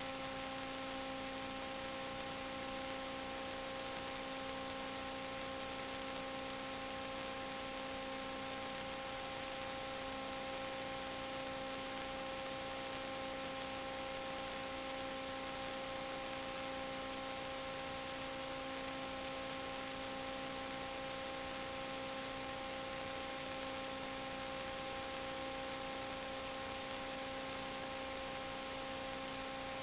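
Steady electrical hum of several fixed tones over an even hiss, unchanging throughout, with no other events.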